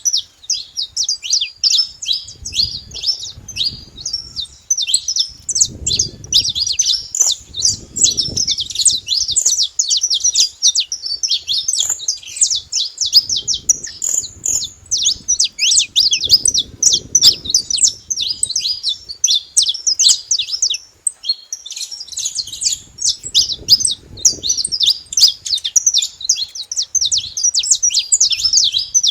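Saffron finches chirping and singing, many quick high notes overlapping without a break. A faint low rumble comes and goes underneath.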